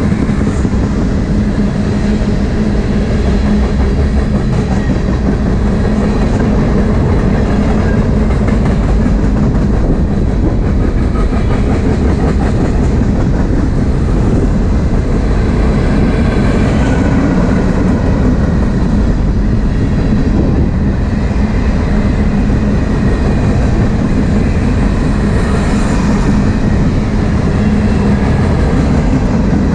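Freight train cars (tank cars, a covered hopper and open gondolas) rolling past close by, their steel wheels running loud and steady on the rails.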